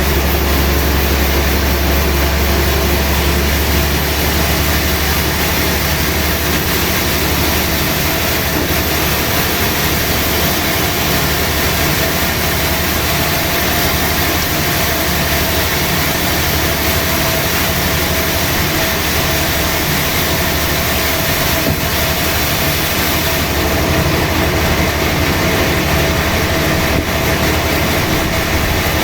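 Sawmill machinery running: a loud, steady mechanical noise with a low hum and a faint held tone.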